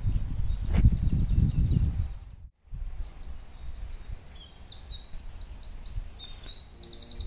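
A low rumble for the first two and a half seconds, then songbirds singing: fast, high, repeated chirping phrases and trills.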